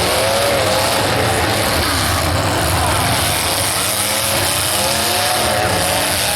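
Demolition derby cars' engines running and revving together in a steady, loud din, with pitches that waver up and down.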